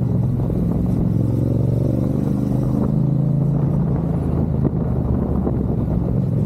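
Motorcycle engine running under way, with a low rumble beneath it. The engine pitch climbs a little about a second in, then holds steady.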